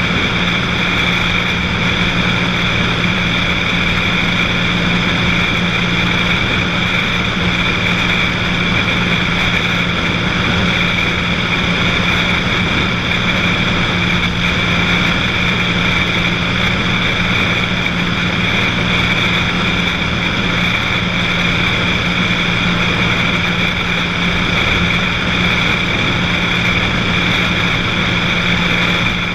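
Cessna 182's six-cylinder piston engine and propeller droning steadily in level flight, with no change in pitch.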